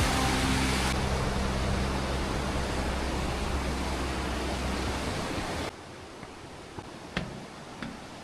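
Rushing water of a mountain stream or waterfall, a steady hiss, with low music notes fading out during the first few seconds. About six seconds in it cuts to a quieter stretch of running water with a few faint clicks.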